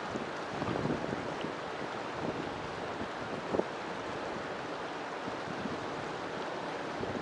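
River water flowing with a steady rush, with small splashes and gurgles breaking through every second or so.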